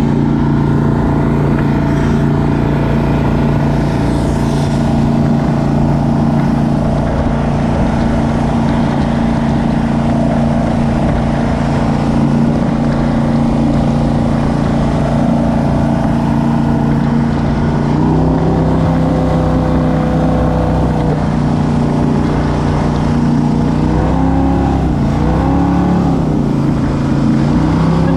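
Jet boat engine running steadily at speed. Its pitch steps up about two-thirds of the way through, then dips and rises a few times near the end.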